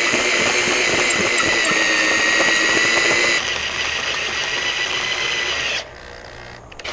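Power drill boring into an aluminum exhaust manifold to enlarge a water-line hole: a steady high whine that eases a little about halfway through and stops near the end. A brief knock follows.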